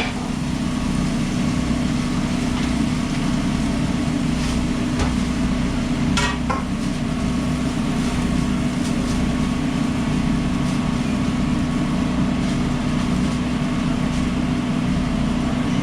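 Steady machinery hum of a food truck's kitchen equipment running, with a short clatter about six seconds in.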